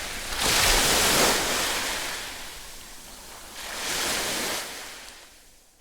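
Ocean surf: waves breaking and washing in two surges, the second about four seconds in, then fading out.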